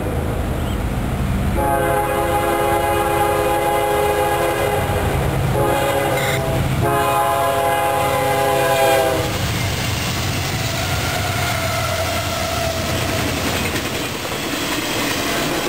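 Freight train's multi-tone air horn blowing three blasts at a grade crossing, the last ending about nine seconds in. The double-stack intermodal cars then rumble and clatter past.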